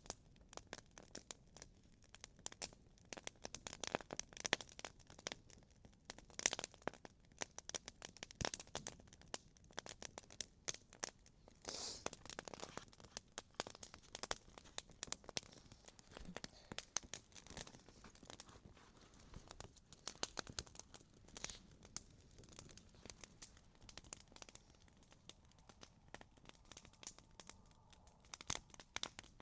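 Small wood campfire crackling, with irregular sharp pops and snaps throughout and a louder brief flare about twelve seconds in.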